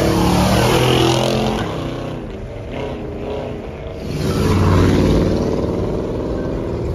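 Car engine revving: loud at first, the pitch falling away after about a second, then revving up again about four seconds in.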